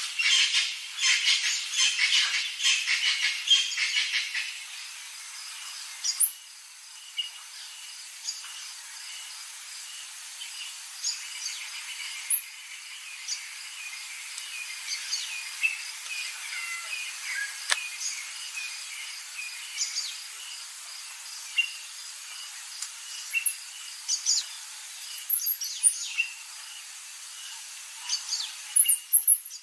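Birds chirping and calling, many short calls and trills. A dense, louder rattling chatter fills the first four seconds or so.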